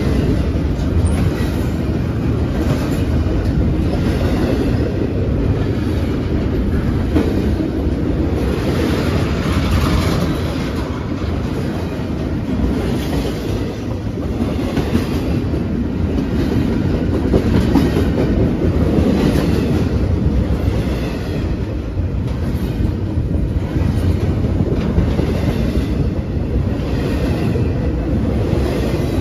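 Double-stack intermodal freight train's well cars rolling past close by: a steady rumble of steel wheels on the rails, with repeated clicking as the wheels cross rail joints.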